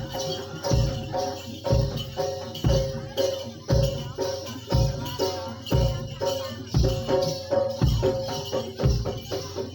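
East Javanese kuda lumping (jaranan) ensemble playing live: a deep drum struck about once a second under steady pitched tones and a high rattling jingle.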